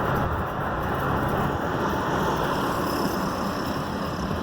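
Steady road and engine noise heard from inside a 2011 Ford Edge's cabin while it is driven, including a turn.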